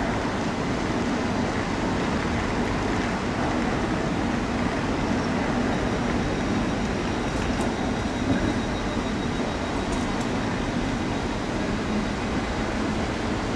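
A railway train running, a steady continuous rumble with rail noise that neither builds nor dies away.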